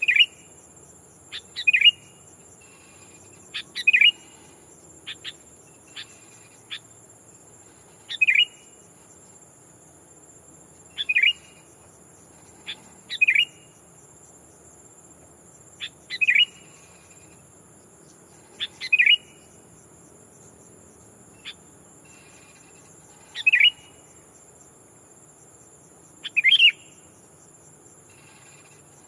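Sooty-headed bulbul (kutilang) giving short, sharp calls, repeated about every two to three seconds, as a decoy bird calling out to challenge wild bulbuls. A steady high-pitched hum runs underneath.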